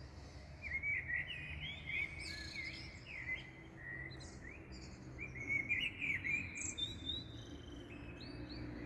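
Several small songbirds chirping and singing at dawn, with quick rising and falling notes in bursts about a second in and again around six seconds in, over a steady low background rumble.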